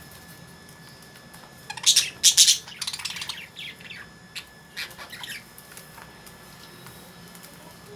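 Lovebirds giving high-pitched chirping and squawking calls: a loud cluster about two seconds in, followed by a few softer calls that die away by about five and a half seconds.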